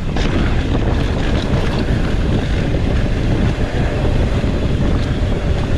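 Steady rush of wind buffeting the microphone of a mountain bike descending fast, with a low rumble and a few small clicks from the ride over the dirt trail.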